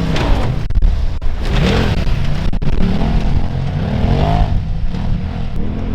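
Polaris RZR side-by-side's engine running hard, its pitch rising and falling several times as the throttle is worked.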